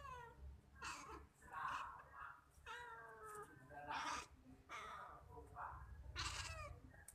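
Calico cat giving a string of short meows, about one a second, each falling in pitch, as it fixes on a house gecko it is watching.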